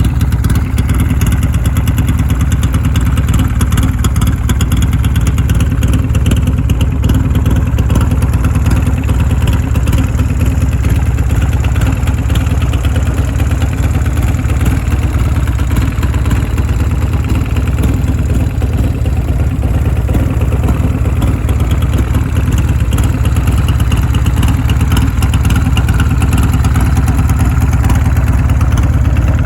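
2000 Buell X1 Lightning's air-cooled V-twin with a Vance & Hines aftermarket exhaust and race ECM, running steadily at idle.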